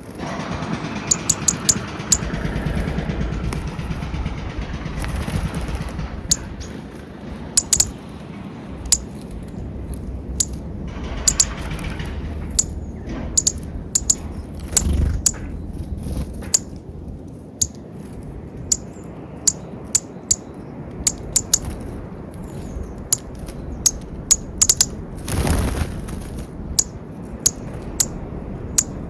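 Small birds at a peanut feeder making many short, sharp, high-pitched chips and clicks at irregular intervals, over a steady low background rumble that swells briefly a few times, loudest about 25 seconds in.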